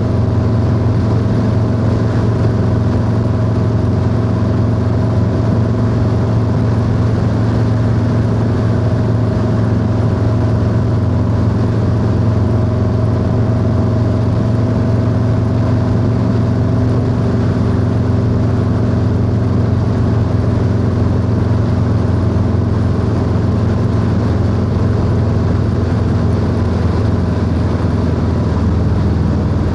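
Harley-Davidson Low Rider S V-twin running through a 2-into-1 exhaust, cruising at a steady speed, its engine note holding nearly constant throughout.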